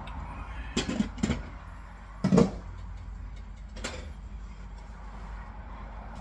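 A few sharp kitchen knocks and clatters, like cookware or utensils being handled, over a steady low hum. Three come close together about a second in, the loudest comes a little after two seconds, and one more comes near four seconds.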